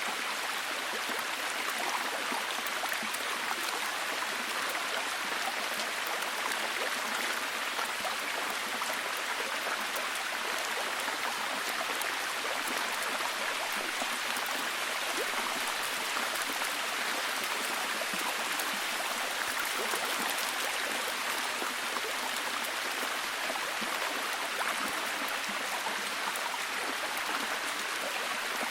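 Steady heavy rain falling, an even hiss made of many fine drop impacts, with no breaks or changes.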